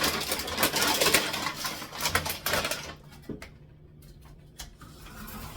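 Rapid clatter and rattling of containers and packets being handled and taken out of a kitchen cupboard, dense for about three seconds and then thinning to a few scattered clicks.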